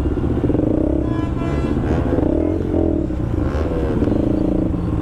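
Sport motorcycle engines running at low speed in slow traffic, their pitch wavering up and down with small throttle changes.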